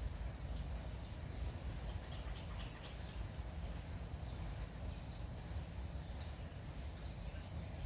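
Light rain falling steadily, with small birds chirping now and then.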